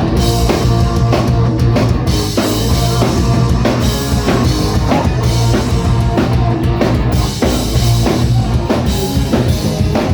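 Live rock band playing an instrumental passage with no vocals: a driving drum kit with bass drum and snare over a steady low bass line.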